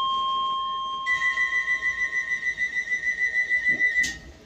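Docklands Light Railway train's door warning: a steady two-note tone, then a rapid beeping about four times a second for some three seconds, cut off by a knock of the doors.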